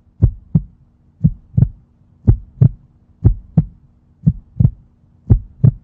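Heartbeat sound effect: paired deep thumps (lub-dub) repeating steadily about once a second, over a faint steady hum.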